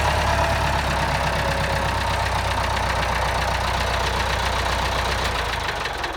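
David Brown tractor engine idling steadily, then starting to die down near the end as it is shut off.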